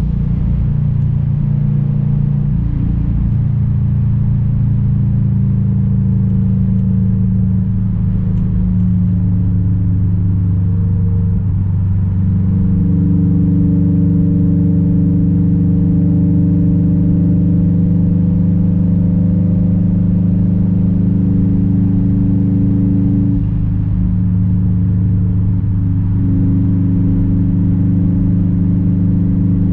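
Straight-piped 2006 Subaru WRX STI's turbocharged flat-four engine and exhaust running steadily while driving. Its note holds mostly even, shifting slightly in pitch and level a few times.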